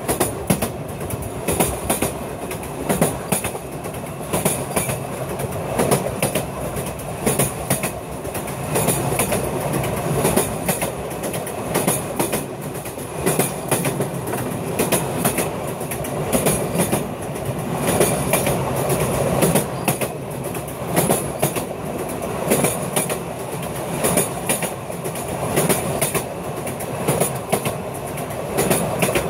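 Sóller railway train running along the narrow-gauge line. The wheels rumble steadily, with repeated sharp clacks as they cross the track.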